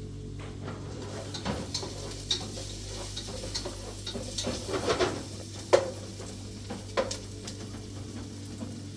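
Food sizzling in a pan while being stirred, with scattered utensil scrapes and two sharp knocks against the pan in the middle.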